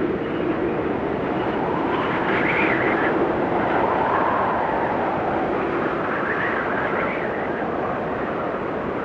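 Snowstorm wind blowing steadily, with gusts that swell into a higher howl about two seconds in and again about six seconds in.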